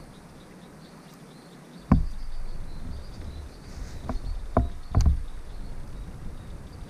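Hollow knocks and thumps against a kayak: one sharp knock about two seconds in, then three more in quick succession between four and five seconds, amid light rustling handling noise.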